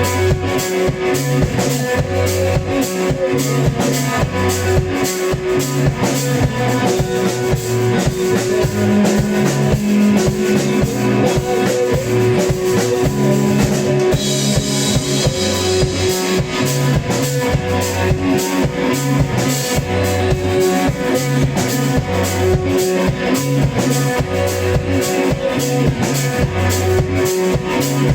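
Live rock band playing: a drum kit keeps a steady beat under bass and electric guitar, with cymbals washing brighter from about halfway through.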